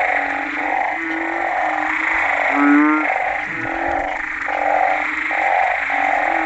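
A chorus of frogs calling after rain, banded bullfrogs among them. Many calls overlap: some are low and drawn out, others are short notes repeated about twice a second.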